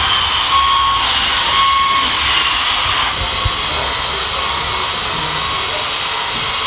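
RC model trucks and construction machines running: a steady whine and hiss from small electric motors, with a short beeping tone repeating about once a second in the first half, like a model's reversing beeper.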